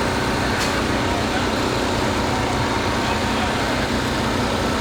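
Steady loud rumble of heavy vehicle engines and traffic, with indistinct voices under it and a short click about half a second in.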